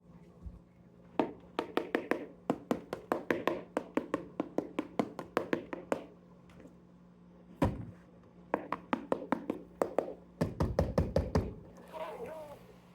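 A rapid run of sharp taps and knocks, about four a second, which stops for a moment around the middle and then starts again, coming closer together just before it ends; a faint steady hum runs underneath.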